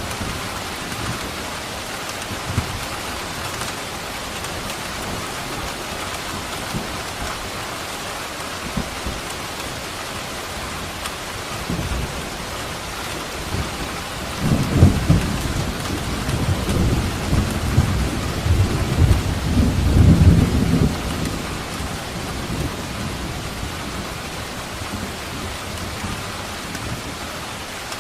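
Steady heavy rain with a long rumble of thunder rolling in about halfway through, loudest twice before fading out a few seconds later.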